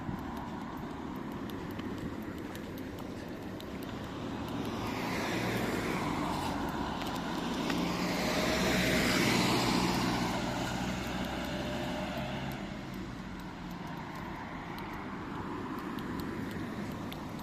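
A road vehicle passing by, growing louder to a peak about nine seconds in and then fading away, over a steady low engine hum.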